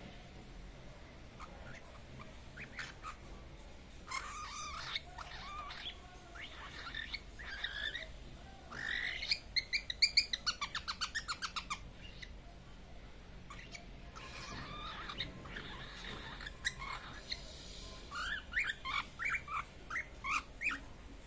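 A three-month-old pet bird chirping and chattering, practising its calls. There are scattered chirps, then a fast run of repeated notes about halfway through, and a string of quick chirps near the end.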